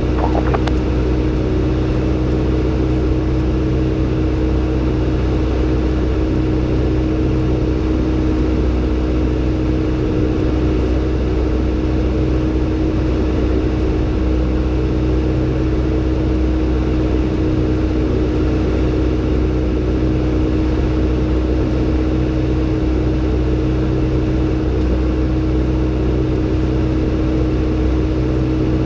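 Robin DR400-120 light aircraft's four-cylinder piston engine running steadily at low power on the ground after landing, a constant drone.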